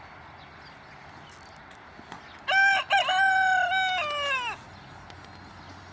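A rooster crowing once: a single call of about two seconds that starts about two and a half seconds in, holds its pitch and then falls away at the end.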